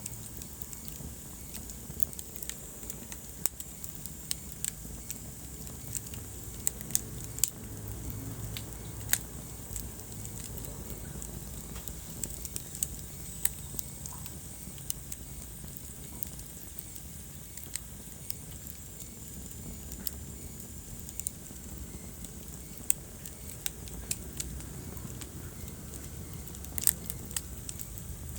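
Wood fire burning in a fireplace: a steady low rumble with irregular sharp crackles and pops, a few louder pops near the middle and near the end.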